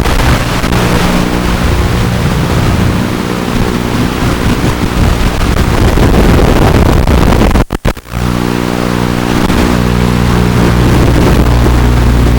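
Small FPV racing quadcopter in flight: a steady hum from its brushless motors mixed with heavy wind noise on the onboard microphone. The sound cuts out briefly a few times about eight seconds in.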